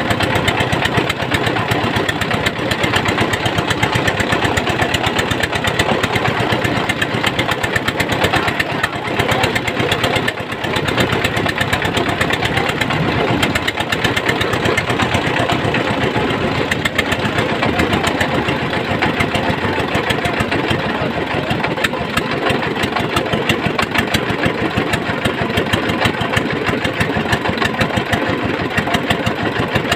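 Motor boat engine running steadily, with a fast, even pulse of firing strokes.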